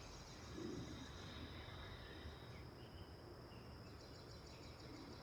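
Faint outdoor ambience: a steady high insect trill with scattered short bird chirps over a low background rumble.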